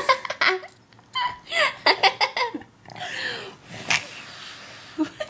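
A baby laughing in quick runs of giggles, in two bursts, while air is blown on his face; a breathy puff of blowing comes in the middle, and a short click comes near the end.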